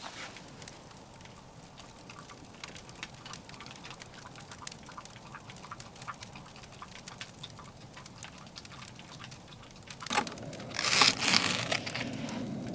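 Firewood crackling in a titanium wood stove, with scattered sharp pops. About ten seconds in, a louder rushing noise lasting about two seconds covers the crackle.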